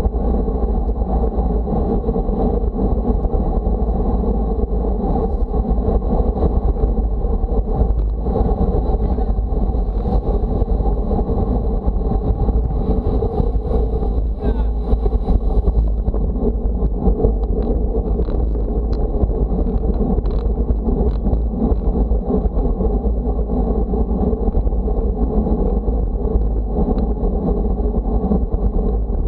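Wind buffeting the microphone, a heavy low rumble over a steady wash of road or vehicle noise.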